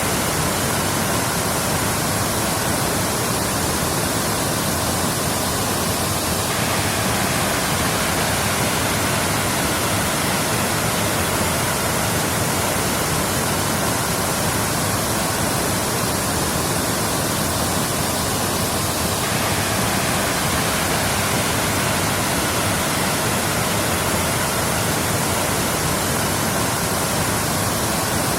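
Waterfall: a steady, even rush of falling water with no other sounds.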